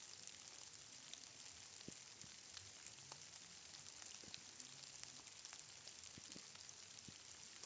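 Steady rain pattering, faint, with a dense hiss and scattered individual drop ticks.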